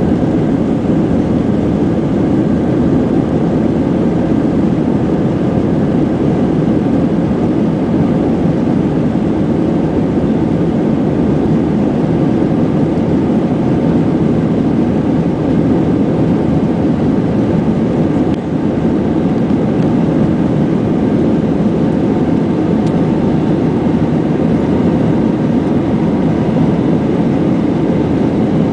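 Airbus A320 engines and airflow heard from inside the passenger cabin as a steady, unchanging noise.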